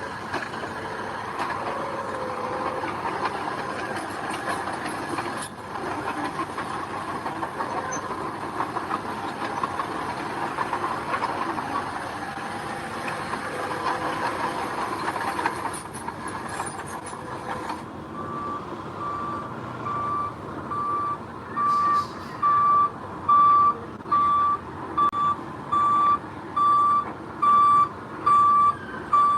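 Heavy machinery running with a steady engine noise for most of the first two-thirds. After an abrupt change a dump truck's reversing alarm starts: a single high tone beeping evenly, about once a second, and louder than the engine.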